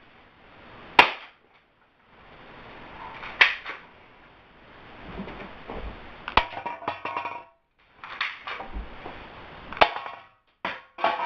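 Spring airsoft pistol firing four sharp shots a few seconds apart, with fainter clicking and handling noise between the shots.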